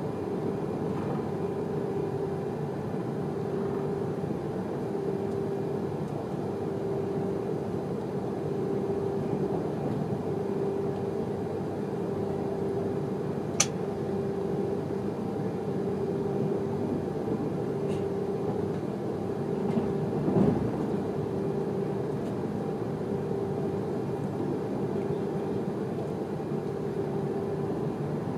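Steady running noise inside the passenger cabin of a Pendolino tilting electric train at speed, with a hum that pulses on and off about once a second. A single sharp click comes about halfway through, and a louder knock a few seconds later.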